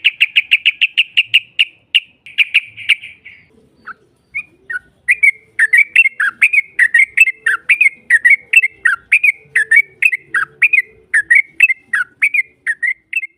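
Yellow-vented bulbul (trucukan) calling: a fast chattering run of rapid repeated notes for about three seconds, then after a short gap a long series of quick down-slurred whistled notes, about three or four a second. This is the bird's long rolling 'ropel' song, played as a lure to make a rival answer.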